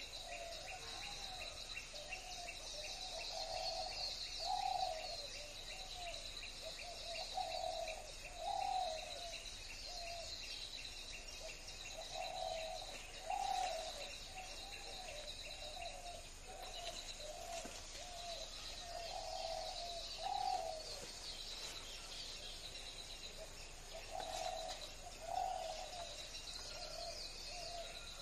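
A bird calling in repeated low phrases, a run of short notes building to a louder call about every four to five seconds, over a steady high-pitched drone with fast ticking.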